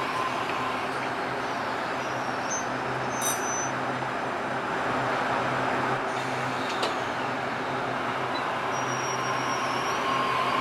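Train running through the station: a steady rumble with a low steady hum, and two brief metallic clicks, about three and seven seconds in.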